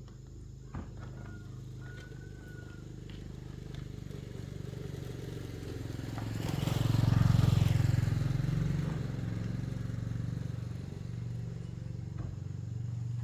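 A motor engine running steadily, swelling to its loudest about seven seconds in and then easing back down.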